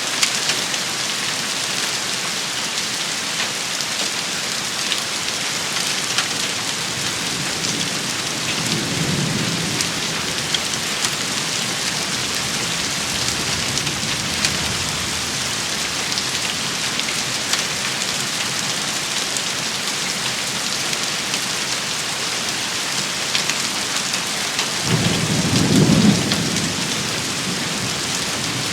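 Steady heavy rain shower with scattered sharp taps of drops. Low rumbles of thunder come twice, a soft one about a third of the way in and a louder, longer one near the end.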